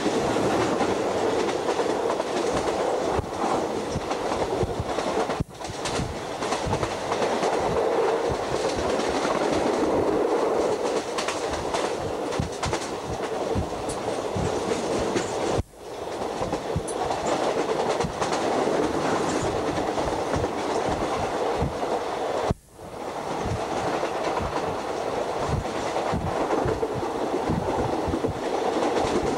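State Railway of Thailand train running along the line, heard on board: a steady rumble of wheels on the rails with irregular clickety-clack at the rail joints. The sound drops out suddenly three times and swells back in each time.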